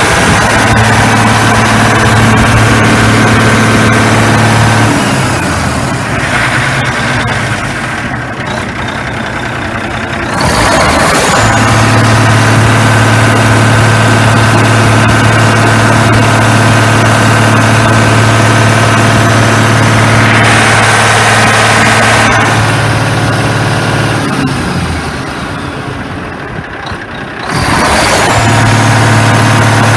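Mack EM6 inline-six diesel engine, out of the truck, running at a steady idle. Twice the note changes and the level drops for several seconds before the steady idle returns.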